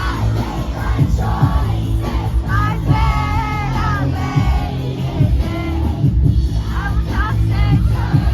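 Loud live concert music: a heavy bass-driven beat with a woman's sung and shouted vocal over it.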